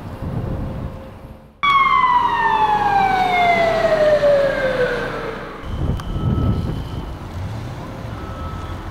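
Emergency vehicle siren giving one long falling wail: it starts abruptly about a second and a half in and slides steadily down in pitch for about three and a half seconds. Vehicle and traffic rumble follows.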